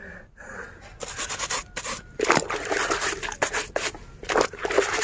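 A brush scrubbing a soapy toy duck, in a run of quick, uneven rasping strokes.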